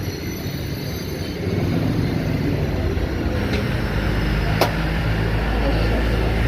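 Steady low rumble of passing road traffic, louder from about a second and a half in, with a single sharp click a little past the middle.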